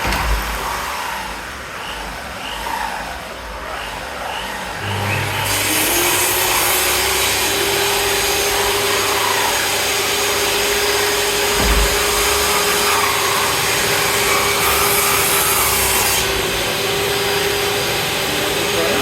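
An electric power tool's motor starts about five seconds in, rises to speed and runs steadily with a high hiss, over the sawing and rubbing of wood. A single knock is heard near the middle.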